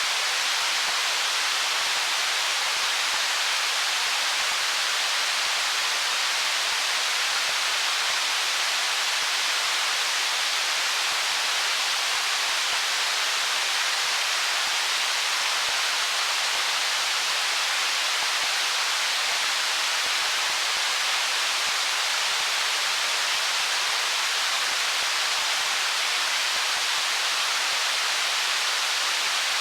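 Stream water flowing over stones: a steady, even rushing hiss with no splashes or changes.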